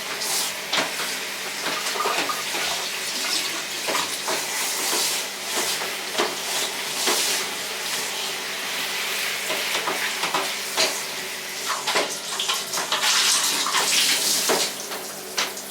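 Water running and splashing in a shower while it is scrubbed and wiped down, with irregular scrubbing strokes and light knocks throughout.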